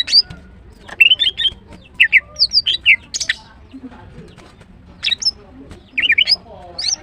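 Female greater green leafbird calling: clusters of sharp chirps and quick rising and falling whistles, several notes to a cluster, with a pause of about a second and a half in the middle.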